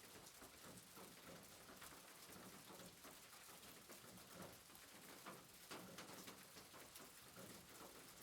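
Faint, steady soft rain: a hiss of rain with a light, irregular patter of drops.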